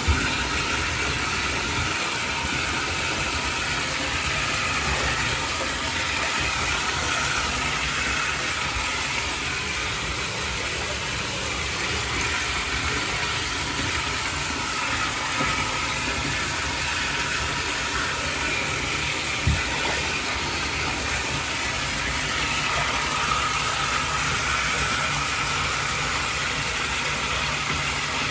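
Water running steadily, a continuous rushing flow, with a single sharp click about two-thirds of the way through.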